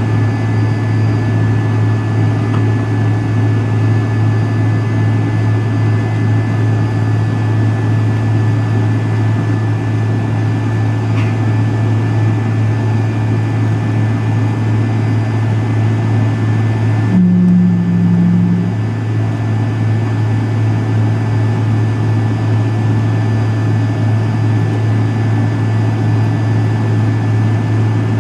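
Steady low drone of an MD-83's tail-mounted Pratt & Whitney JT8D engines heard inside the rear cabin, with no rise or fall in pitch. About 17 seconds in a brief low hum sounds over it for a second or two.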